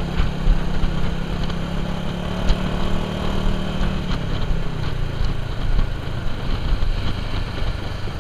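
Suzuki motorcycle engine running steadily under way, heard from the rider's position along with wind and road rush; the engine note drops slightly about four to five seconds in.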